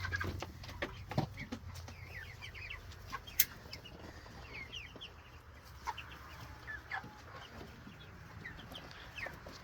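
A flock of meat chickens clucking and cheeping softly, in short scattered calls, with a few sharp clicks among them, the loudest about three and a half seconds in.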